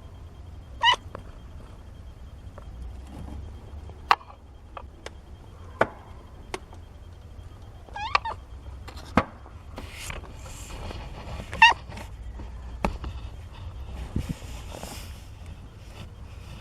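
Seventeen-day-old kittens mewing: a few short, high-pitched mews, one about a second in, a couple around eight seconds and one near twelve seconds. Scattered sharp clicks and some rustling between them.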